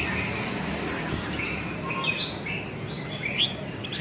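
Red-whiskered bulbul calling in short chirped phrases, several in a row, over steady low background noise.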